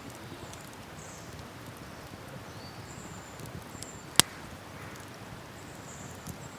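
Wood campfire crackling, with scattered small ticks and one sharp, loud pop about four seconds in, over a steady low hush. Faint, short high chirps come and go.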